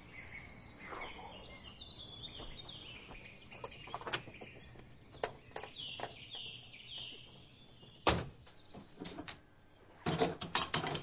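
Small birds chirping in short falling calls, with a few light clicks, then a pickup truck's door slammed shut about eight seconds in. Near the end comes a quick clatter of small hard objects.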